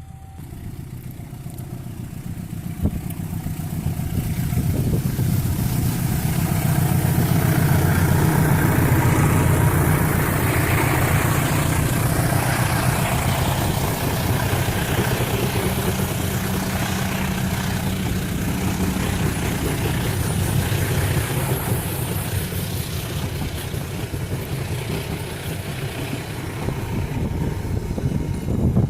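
Diesel locomotive hauling a passenger train: its engine drone grows louder over the first eight seconds or so as it approaches, then holds steady with running noise as the train passes.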